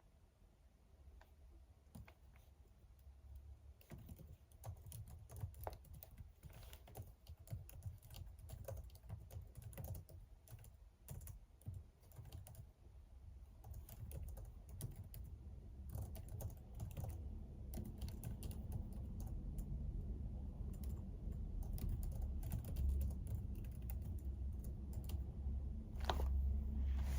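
Typing on a computer keyboard: irregular runs of keystroke clicks, starting a few seconds in. A low rumble grows louder underneath.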